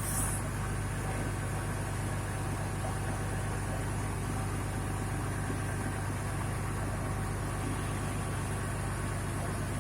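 Newly fitted Yuchai diesel engine idling steadily just after its first start.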